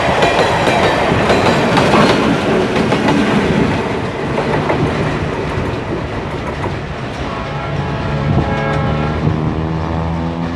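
Freight train of empty wagons rolling past, wheels clattering over rail joints, fading after about four seconds. A diesel locomotive's steady engine drone then builds toward the end.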